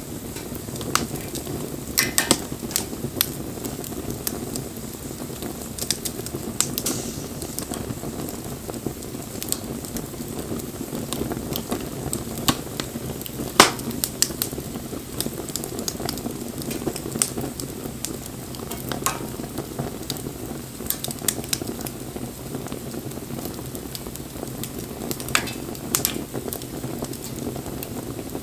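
Wood bonfire burning: a steady low noise from the flames, broken by frequent irregular sharp crackles and pops, the loudest pop about halfway through.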